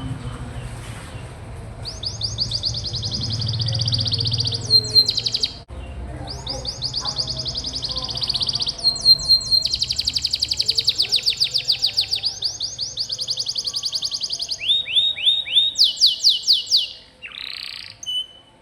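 Domestic canary singing long, fast rolling trills of rapidly repeated high notes in several phrases, with a few slower lower notes and quick rising sweeps near the end before the song stops.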